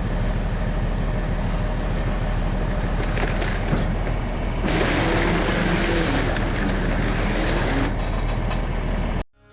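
A large engine running steadily, with a heavy noisy hum that gets somewhat louder about five seconds in and cuts off suddenly near the end.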